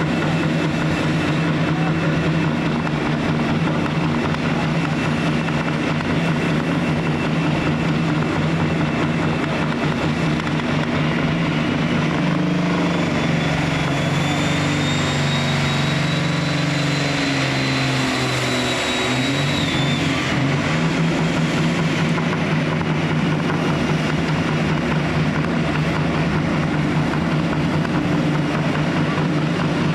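Heavy diesel pulling-vehicle engine running steadily. About halfway through the revs shift and a high whine climbs, holds for several seconds, then falls away.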